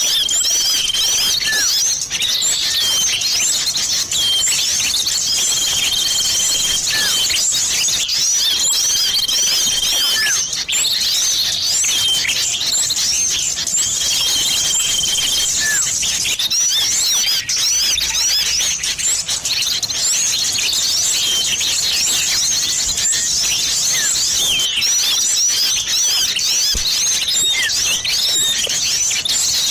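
Bird-trapping lure recording of massed small-bird calls, a mix that includes common iora (cipoh): dense, fast high chirping and twittering, with a held whistle at one steady pitch repeated several times in the first half.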